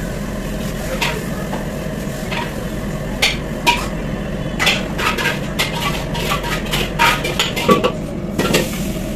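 Metal spatula clanging and scraping against a wok in quick irregular strikes while fried rice is stir-fried, over a steady low hum.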